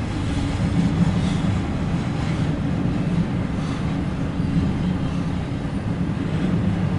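Long intermodal freight train rolling past: a steady low rumble of wheels on rail, with faint clicks about once a second.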